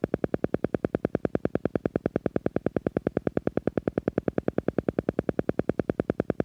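Silva Method pulsing sound: a rapid, even electronic pulse at about ten beats a second, meant to guide the brain into the relaxed alpha state.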